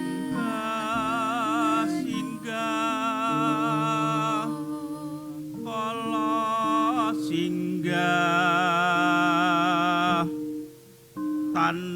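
A solo voice singing a slow Javanese ritual chant in long, wavering held notes, in about four phrases with short breaks, over steady lower sustained tones.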